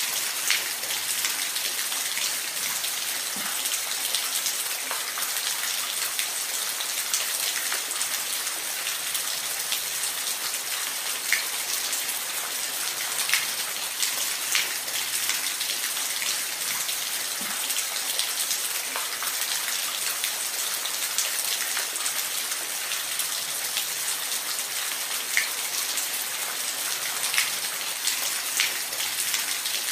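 Falling water hissing steadily, with many small scattered droplet splashes.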